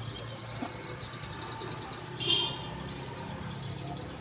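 Several caged sogon birds (little spiderhunters) singing at once in rapid, high, chattering trills that overlap throughout. One louder call stands out a little past the middle.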